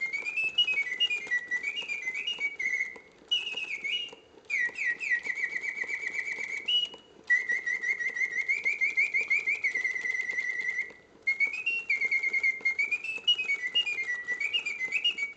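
Reuge double singing bird cage automaton singing: its bellows-blown mechanical whistle plays bird song in rapid trills and quick rising and falling notes, in phrases separated by brief pauses. Both birds sing in full voice with all the proper notes.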